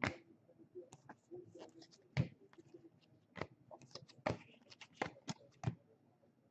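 Trading cards being flipped through and handled: a string of sharp clicks and snaps of card stock, with light rustling between them.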